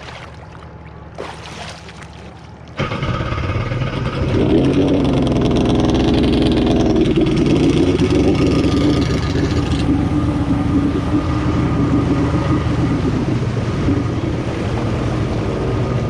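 Kawasaki X2 jet ski's 650 cc two-stroke twin engine, quiet at first, then suddenly loud about three seconds in as it is throttled up, rising in pitch and then running steadily at speed.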